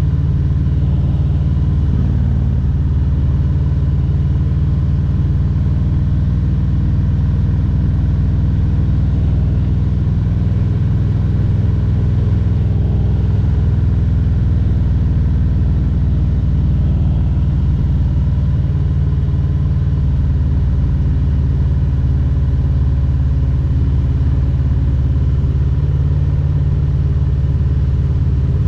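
Harley-Davidson Road Glide Special's Milwaukee-Eight 114 V-twin engine running steadily while riding.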